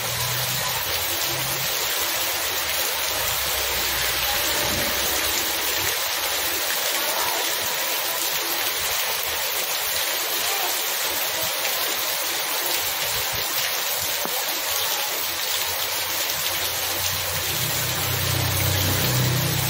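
Steady heavy rain falling on a wet street, an even hiss throughout. Near the end a motorbike engine comes in with a low hum as it rides up through the rain.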